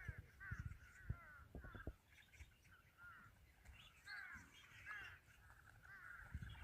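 Faint bird calls repeating in quick bunches of short arched notes, with a few low thumps in the first two seconds.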